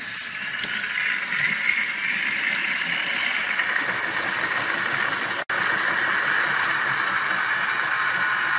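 ESU LokSound Select decoder in an N-scale ScaleTrains Tier 4 GEVO model playing its diesel prime-mover sound through a tiny sugar-cube speaker, so the engine sound is thin with no deep bass, as the locomotive runs under power at 40 speed steps. The sound cuts out for an instant about halfway through.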